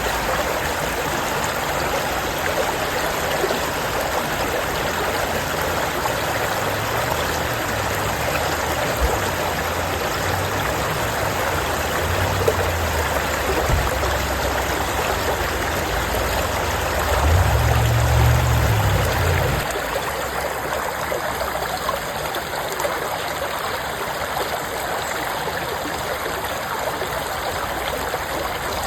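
Stream water flowing and splashing steadily. A low rumble sits underneath through the middle, swelling briefly about two-thirds of the way in before dropping away.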